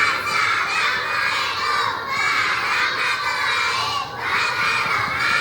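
A group of young kindergarten children singing loudly in unison, their voices close to shouting.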